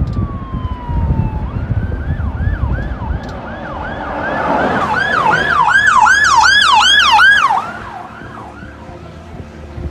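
Emergency vehicle siren: after a falling tone, it wails in quick repeated rising sweeps, about two a second, growing louder and then cutting off about three-quarters of the way through. A low rumble runs underneath.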